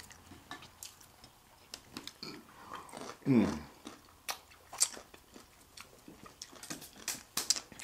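Close-up eating sounds: chewing, lip smacks and fingers being licked, with many small wet clicks. About three seconds in there is a short vocal sound that falls in pitch.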